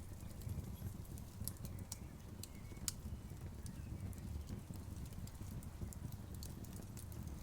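Campfire crackling, with scattered sharp pops and one louder pop about three seconds in, over a steady low rumble.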